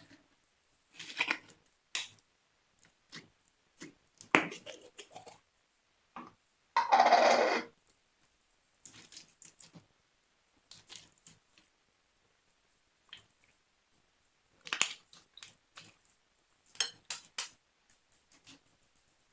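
Store-bought slime being squished and mixed, giving irregular sticky clicks and pops. About seven seconds in there is one louder, longer squelch lasting about a second.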